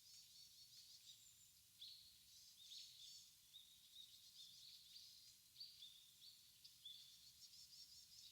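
Faint chorus of small birds calling in a bamboo thicket: many short, high chirps and twittering notes overlapping, with a few sharper calls standing out now and then.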